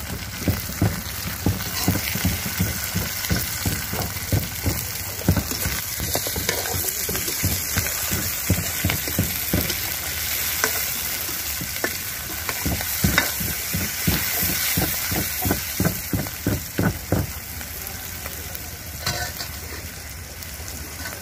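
Onions, green chillies and ground spice paste sizzling in a pan while being stirred, with quick scraping knocks of the stirring utensil against the pan. The stirring knocks thin out near the end while the sizzle goes on.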